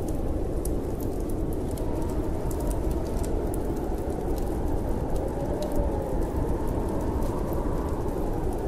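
Steady low wind of a snowstorm, with a faint rising-and-falling whistle about midway, over scattered small crackles of a burning wood fire.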